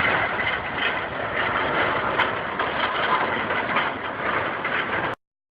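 A vehicle's engine and road noise as picked up by a dashcam, a steady rushing drone that cuts off abruptly about five seconds in.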